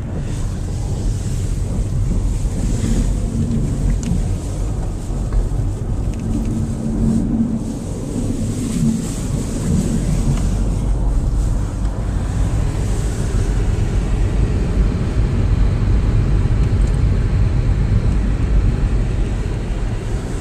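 Car cabin noise while driving: a steady low rumble of engine and tyres on the road, with a faint pitched engine hum coming and going.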